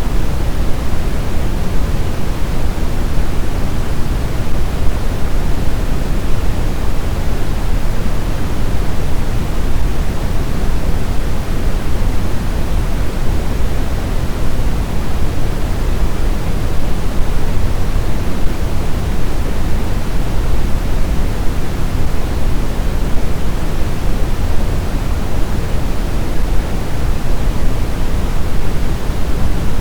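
Steady blizzard wind noise: an even, unbroken rush, heaviest in the low end, with no distinct gusts or whistling.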